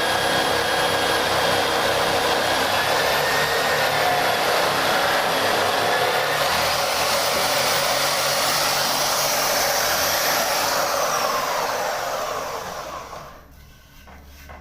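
Small electric motor of a homemade wood sanding machine running at speed with a steady whine, then winding down near the end, its pitch sliding lower as it slows to a stop.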